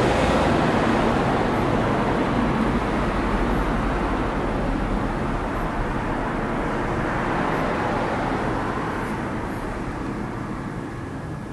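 Steady rumbling noise that slowly fades toward the end.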